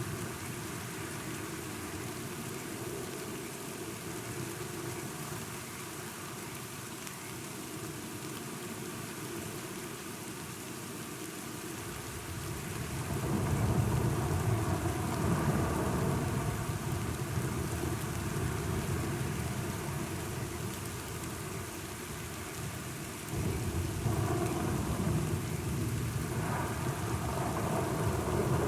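Steady rain with rolling thunder: a low rumble builds about halfway through and slowly fades, and a second roll breaks in suddenly near the end.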